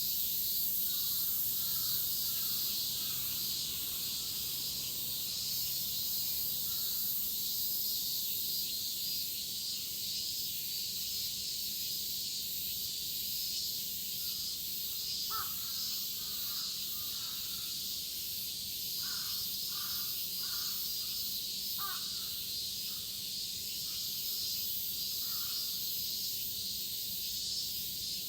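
Midsummer cicada chorus: a dense, steady high-pitched buzz. Short bird calls break in a few times, near the start, around the middle and again later.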